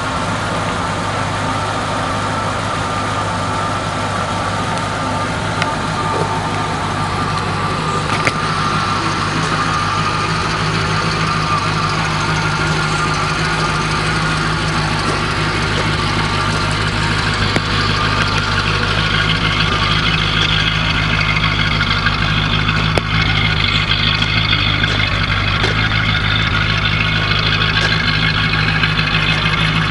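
1979 Lincoln Continental Mark V's V8 engine idling steadily.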